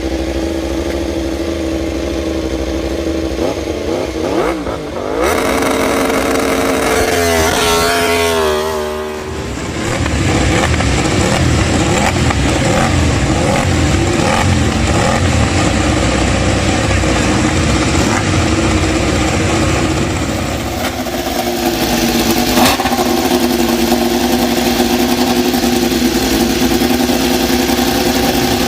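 1000 cc four-cylinder MotoGP racing motorcycle engines running at high revs. The pitch swings up and down a few seconds in, and the sound changes abruptly a few times.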